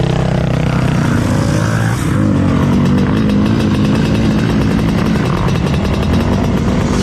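Dirt bike engine running steadily under throttle, with a change in its note about two seconds in.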